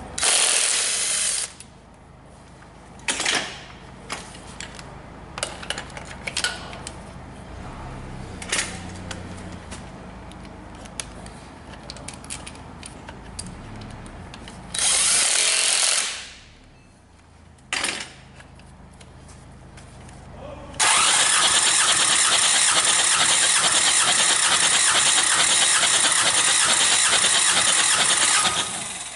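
Hyundai D4CB four-cylinder diesel, out of the vehicle, cranked on its starter for a compression test: a loud, steady, rhythmic churn that starts suddenly about 21 seconds in and lasts about eight seconds. Before that come two short loud bursts, each about a second long, and scattered clicks and knocks of tools.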